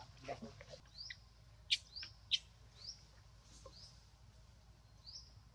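Small birds chirping: short, high, rising chirps repeated every second or so, with two sharper, louder chips about half a second apart near the middle.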